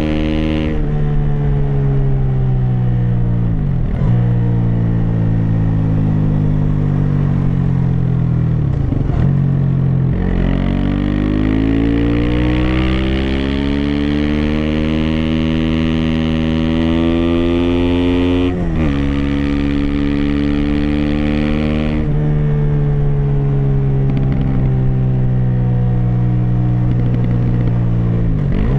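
Aprilia SX 125's single-cylinder four-stroke engine through an Arrow racing header and Arrow Thunder slip-on with dB-killer, pulling through the gears while riding. Its pitch climbs under acceleration and drops sharply several times as the rider shifts or rolls off, with a long build from about ten seconds in.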